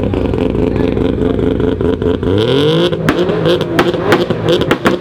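A car engine revved hard and loud, its pitch climbing steeply a little after two seconds in, with sharp cracks in the last two seconds.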